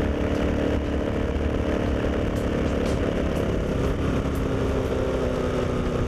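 Moto Guzzi Griso's V-twin engine running steadily while the motorcycle is ridden, its pitch dropping slightly about four seconds in.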